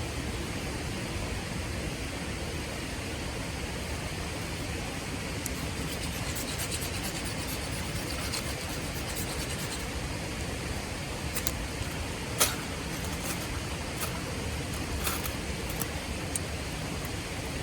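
Steady rush of river water with scattered sharp crackles and pops of a wood fire burning in a Solo Stove Titan; the loudest pop comes about twelve seconds in.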